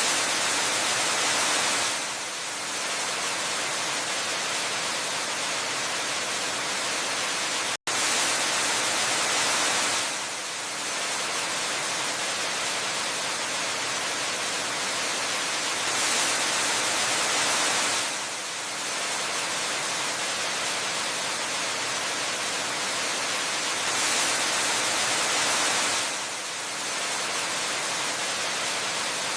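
Steady rushing hiss of a waterfall, swelling louder for about two seconds every eight seconds. There is a momentary dropout to silence just before eight seconds in.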